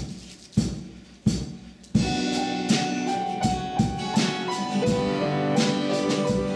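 Worship band music starting up: a few separate drum hits with ringing tails, then about two seconds in the full band comes in with a steady beat and sustained keyboard or guitar chords.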